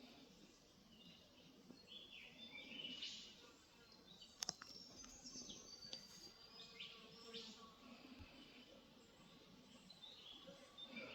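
Faint, scattered bird chirps and short calls, with a pair of sharp clicks about four and a half seconds in.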